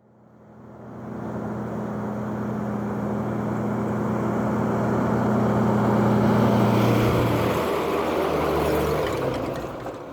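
A motor passing by: its hum rises out of silence, peaks, drops in pitch about eight seconds in, and fades away.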